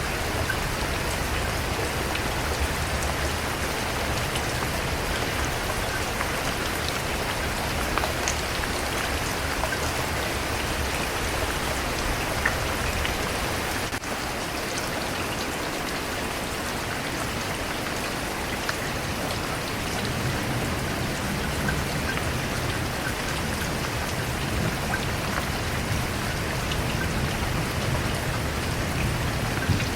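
Steady rain falling on surfaces, a continuous hiss with scattered individual drops ticking through it. A low rumble underneath drops away about halfway through and builds back up later.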